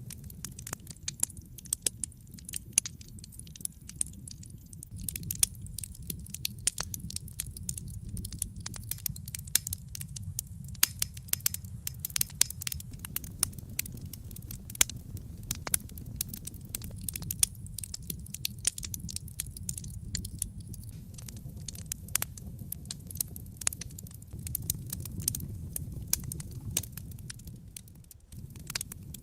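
Wood fire in a fireplace crackling, with dense, irregular sharp snaps and pops over a steady low rumble of the burning.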